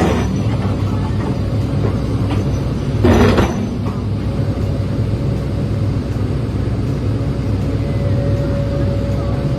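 Heavy machinery engine running steadily with a low rumble, with two short louder rushes of noise, one at the start and one about three seconds in.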